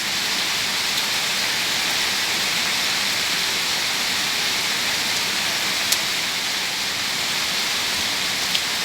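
Heavy rain falling steadily, a dense even hiss of downpour on roofs and a flooded road, with two sharp drop-like ticks, one about six seconds in and one near the end.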